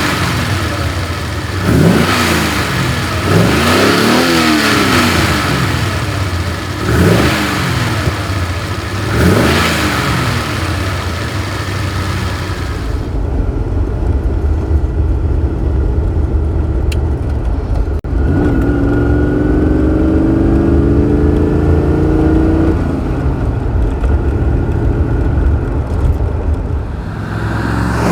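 1969 Maserati Ghibli 4.7's quad-cam V8 revving up and dropping back about five times in quick succession. It then settles into a steadier, more muffled run, its pitch climbing slowly as the car gathers speed.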